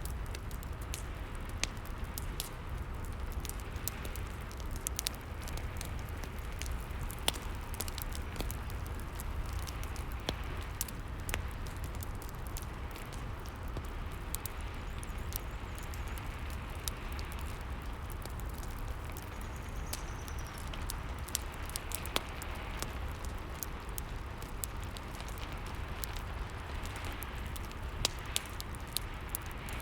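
Rain falling steadily together with a fire crackling: an even hiss and low rumble with scattered sharp pops throughout.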